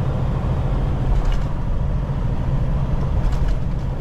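Semi truck cruising at highway speed, heard from inside the cab: a steady low engine drone under road and tyre noise, with a couple of faint ticks.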